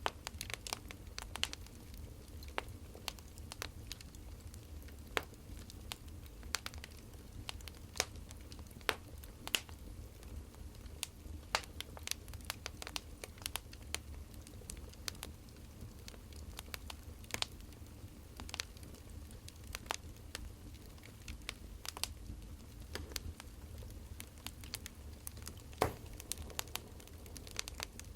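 Wood fire burning, crackling with irregular sharp pops and snaps over a steady low rumble.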